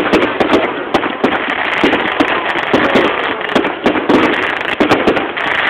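Fireworks display going off in a dense barrage: rapid, irregular bangs and crackles.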